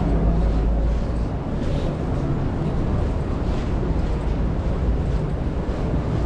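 City street traffic: a steady low rumble of vehicles on a busy avenue, with no single event standing out.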